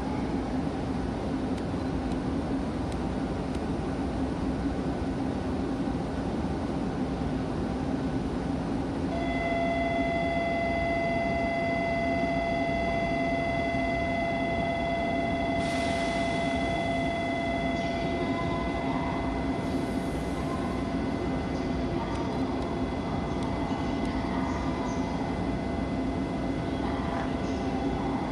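E2 series Shinkansen train standing at the platform with a steady hum, joined about nine seconds in by a steady high-pitched ringing tone that holds on. A short hiss comes around the middle.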